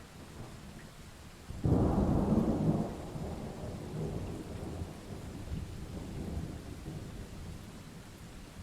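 Thunderstorm: steady rain with a clap of thunder that breaks suddenly about a second and a half in, loudest for a second or so, then rumbles on and fades slowly.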